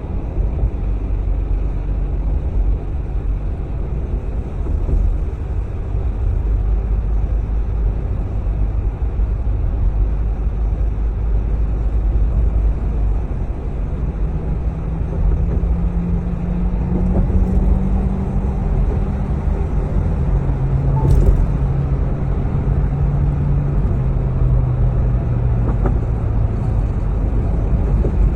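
Car driving through town: a steady low road and engine rumble. About halfway an engine note comes up, rises a little, then drops to a lower pitch as it runs on, and there is one short click a few seconds before the end.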